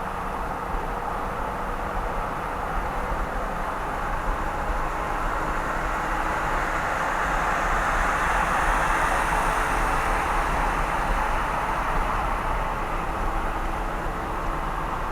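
Car driving at speed, a steady rush of tyre and engine noise that swells louder for a few seconds around the middle.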